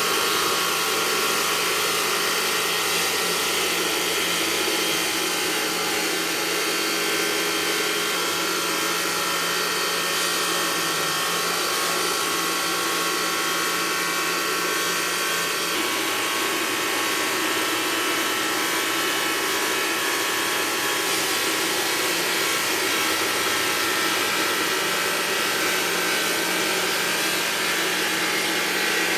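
Stone-working power machinery running steadily: an even, hissing whine with several steady tones in it.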